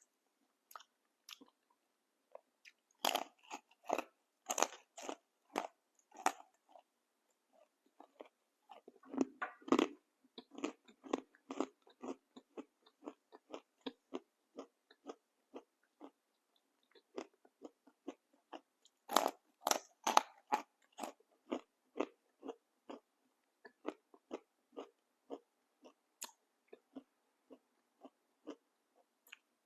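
A person biting into and chewing a crunchy fried snack close to the microphone. Loud crunches come in clusters a few seconds in, around ten seconds in and again around twenty seconds in, with softer steady chewing between.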